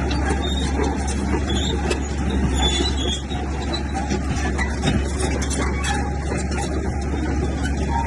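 Heavy earthmoving machinery's diesel engine running steadily under work, with a constant low drone and mechanical clatter.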